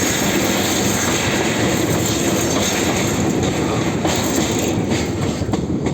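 Steady, loud rumbling noise of a moving vehicle in motion, with a few sharp clicks near the end.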